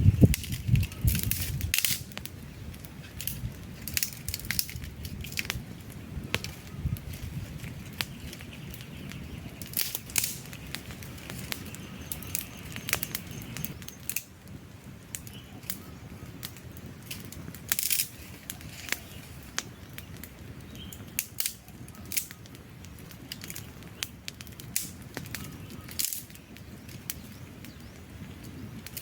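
Wood campfire burning, its logs crackling with frequent irregular sharp pops over a steady low hiss. A louder low rumble in the first two seconds stops abruptly.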